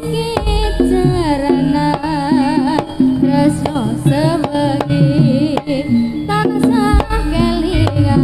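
Javanese jaranan ensemble music: kendang hand drums beating under held gamelan tones, with a wavering, vibrato melody line on top and deep gong-like booms about half a second in and again near the end.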